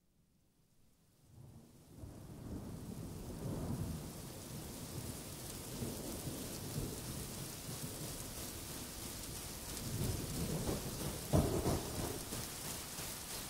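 Rain and rumbling thunder fading in from silence, with a louder roll of thunder about eleven seconds in: a storm sound effect opening a pop song.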